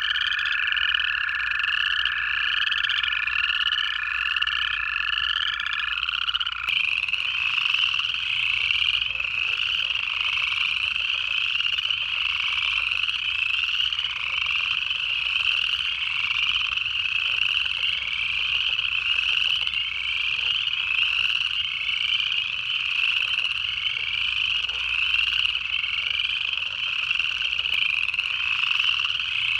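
A dense chorus of upland chorus frogs, their rising trills overlapping without a break. Two American toads give long steady trills at a lower pitch, which stop about six seconds in.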